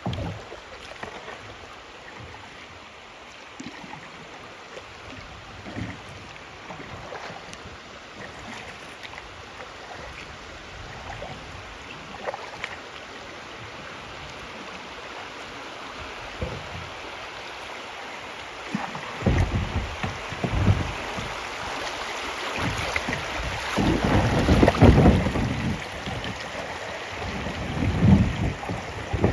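Steady rush of river water around a kayak, with a few small splashes. From about two-thirds through, irregular gusts of wind buffet the microphone in loud low rumbling bursts.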